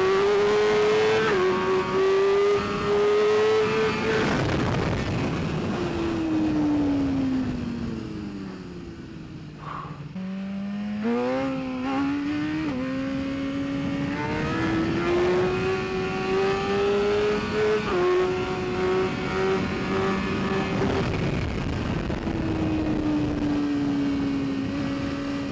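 A BMW S1000RR superbike's inline-four engine heard from on board. It slows through downshifts to a low point about ten seconds in, pulls away again with a few quick upshifts, holds a fairly steady pace, then eases off near the end, with rushing wind underneath.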